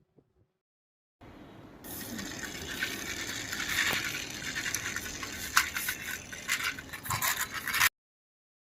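Plastic toy tractor being run along a hard surface: a rattling, hissing rumble of its wheels, full of sharp clicks, starting about a second in and cutting off abruptly near the end.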